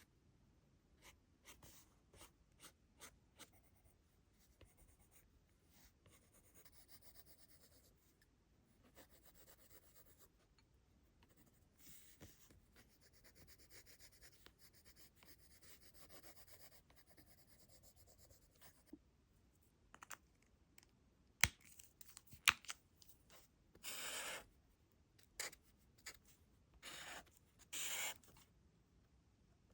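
Faint scratching of a drawing tool on sketchbook paper: soft shading strokes, then a few louder, quick strokes near the end. Two sharp clicks about two-thirds of the way in.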